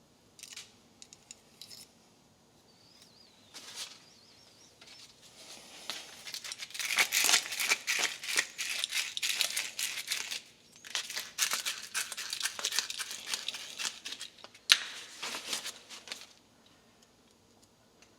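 Hand work on a small metal fuel line: a few light clicks, then long bursts of scraping and rasping with a sharp click near the end, as the distorted tubing end is worked to take a ferrule.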